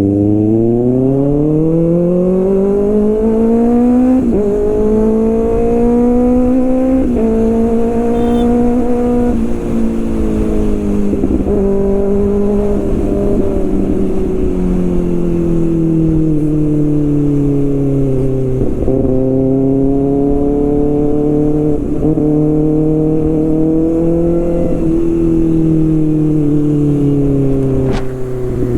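Kawasaki Ninja ZX-6R's inline-four engine and exhaust under acceleration through the gears: the pitch climbs and drops sharply at each upshift, six times, with stretches where it eases off and the pitch sinks, and it slows down near the end.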